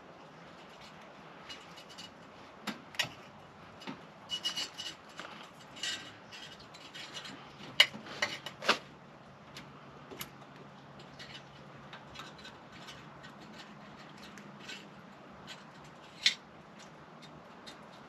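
Scattered clicks, clinks and rubbing of tools and metal hardware being handled during a diesel heater install, with a flurry of sharp knocks in the middle and one sharp click near the end, over a faint steady low hum.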